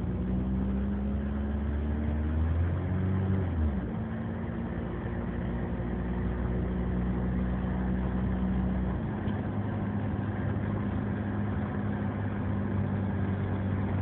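Old Mercedes-Benz car's engine and leaky exhaust running under way, heard from inside the car. The engine note drops about three and a half seconds in, like a gear change, and shifts again about nine seconds in.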